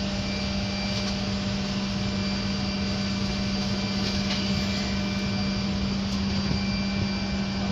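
Steady drone of engine and air noise inside an airliner's cabin, with a constant low hum under it.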